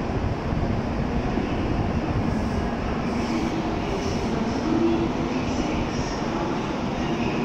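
N700-series Shinkansen train standing at the platform, its onboard equipment giving a steady hum and rumble with a few faint held tones.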